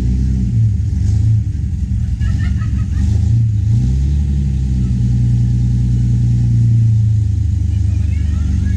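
Austin-Healey sports car's engine running with a deep exhaust note, revving lightly a couple of times and then holding a steady low pace as the car pulls slowly away.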